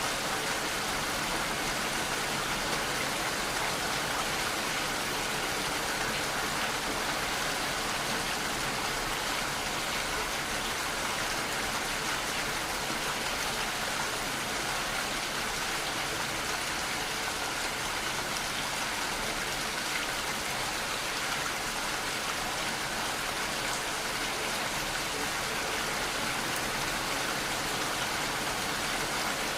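Steady rainfall, an even hiss of raindrops with fine pattering.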